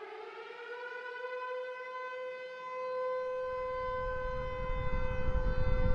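A single long, steady siren-like horn tone that glides up slightly at the start and then holds. A low rumble builds in under it from about halfway through and keeps getting louder.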